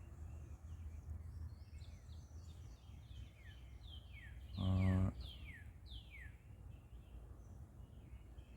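Birds calling with repeated short notes that slide down in pitch, over a steady low rumble. About halfway through, a brief loud steady tone lasts about half a second.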